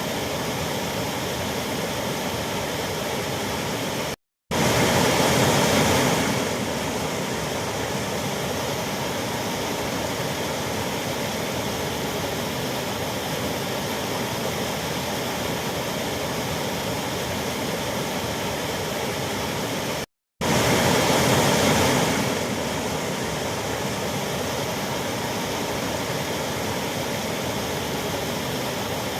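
Waterfall: a steady rush of falling water. It cuts out to silence for a moment twice, about 4 and 20 seconds in, and each time comes back a little louder for a couple of seconds before settling.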